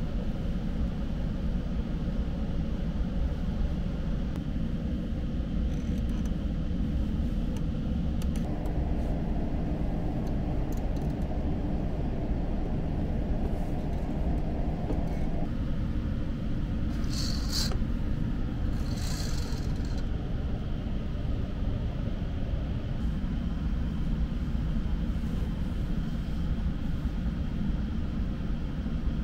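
Cabin running noise of a Seibu New Red Arrow limited express train under way: a steady low rumble from the wheels and running gear. Two short hisses come a little past halfway.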